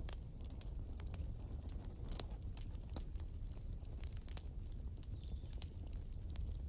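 Wood fire crackling: irregular sharp pops and snaps over a steady low rumble of the flames, with a faint wavering high whistle for a moment around the middle.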